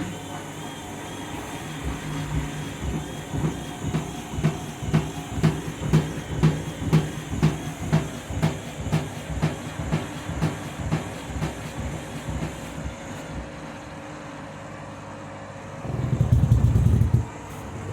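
Candy washing machine drum turning with an unbalanced heavy load of a towelling robe, thumping about twice a second. The thumps build up and then die away, and a short loud burst of motor drive comes near the end: the machine is trying to balance the load for its interim spin.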